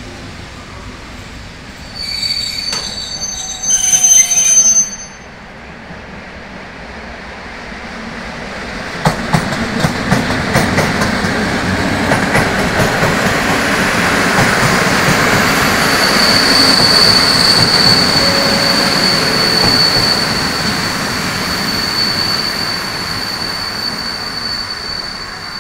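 A train passing close by on the rails. About two seconds in there is a short spell of loud, high squealing. From about nine seconds in, the wheels click over rail joints as the running noise builds, then a steady high-pitched wheel squeal holds through the last several seconds.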